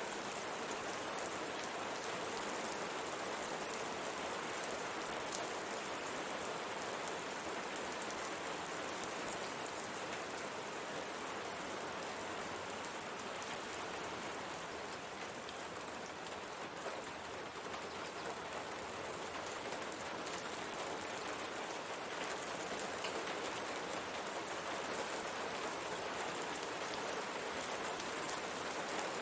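Steady rain pattering against a window pane, an even hiss with fine drop ticks throughout.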